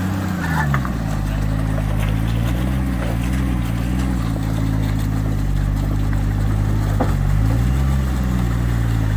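Ford Barra straight-six in a Nissan Patrol GU, revving up and settling under load as the four-wheel drive works at a rocky climb with its rear wheels in a muddy hole and short of traction. The revs rise right at the start and again about eight seconds in.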